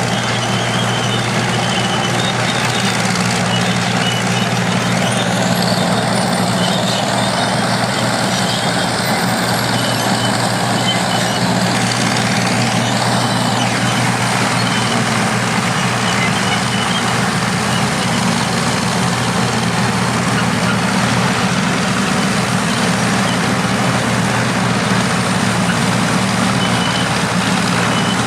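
Engines of vintage crawler bulldozers and scrapers running steadily under work. A high wavering whine rides over them from about five seconds in until about fourteen seconds.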